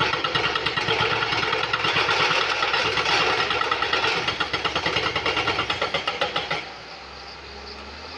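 Excavator's hydraulic rock breaker hammering on stone in rapid blows, about six or seven a second, over the diesel engine. The hammering stops abruptly about two-thirds of the way through, leaving the engine running more quietly.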